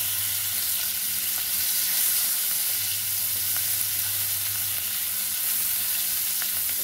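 Capsicum and onion sautéing in butter and oil in a pan: a steady sizzle with a few faint clicks.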